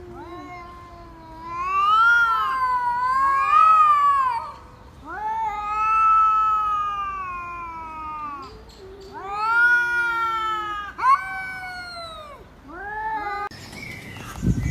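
A domestic cat yowling: a run of about six long, drawn-out meows that rise and fall in pitch, one after another. Near the end the sound cuts to a different background, with a low thump.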